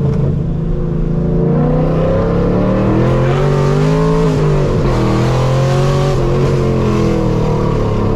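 Straight-piped 5th-gen Chevrolet Camaro SS V8 exhaust under acceleration, its pitch climbing for about four seconds, dropping briefly about halfway, then climbing again.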